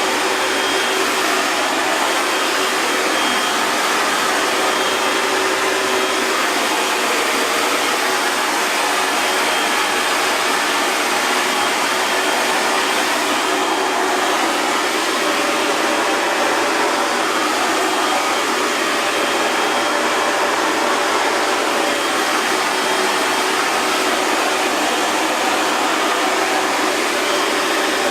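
Hair dryer running steadily: a constant rushing hiss of blown air with a faint steady whine, unchanging throughout.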